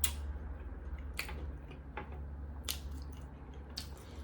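A person chewing a bite of BLT sandwich with cheese, with about five short wet mouth smacks.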